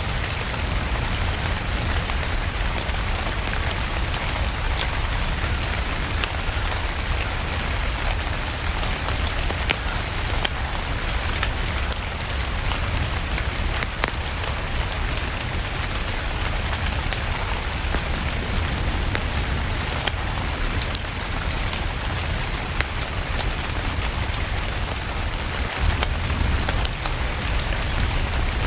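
Steady rain mixed with a crackling wood fire in a fireplace: an even wash of rain with scattered sharp pops and crackles over a low rumble.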